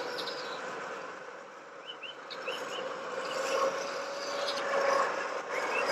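A few short bird chirps over a steady low hum.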